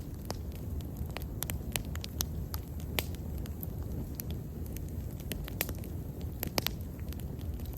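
Wood bonfire burning: a steady low rumble of flames with irregular sharp crackles and pops from the burning wood.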